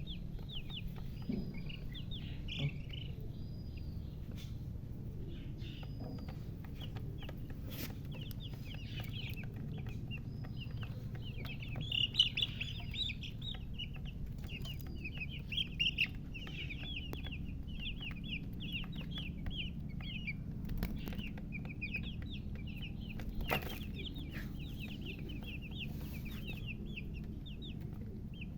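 Newly hatched chicks peeping continuously, many quick high chirps overlapping. Under them is a steady low hum, with a few sharp knocks scattered through.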